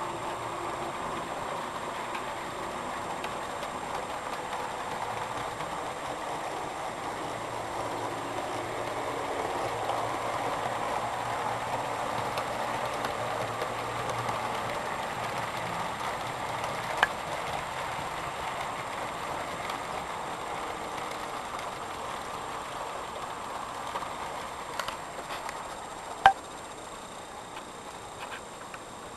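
Model train running along its track, a steady rolling whir that swells midway and then fades away, with a couple of sharp clicks, the last near the end being the loudest.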